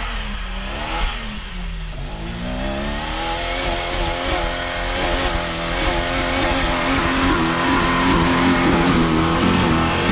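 Off-road rig's engine revving hard while climbing through deep snow. Its pitch rises and dips, then climbs and holds high and wavering from about two seconds in, growing louder toward the end.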